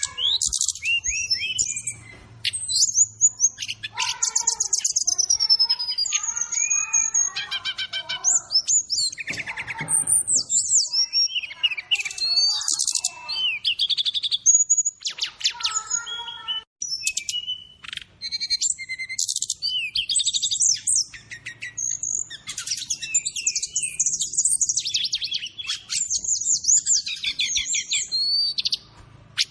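Brown-chested jungle flycatcher (SRDC) song: rapid, varied high-pitched whistled phrases, trills and chirps, with quick rising and falling notes and only brief pauses.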